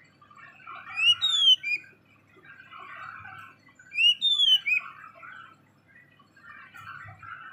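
A black-and-white songbird singing: a soft, scratchy chattering warble with two loud whistled notes, one about a second in and one about four seconds in, each rising and then falling.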